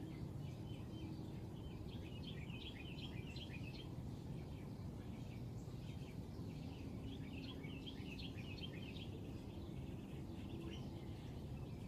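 Small birds chirping in quick twittering runs, busiest twice, over a steady low background hum.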